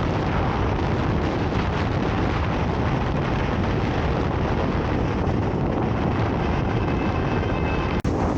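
Strong wind blowing hard across the microphone: a steady, dense rush weighted to the low end. It cuts out for an instant near the end.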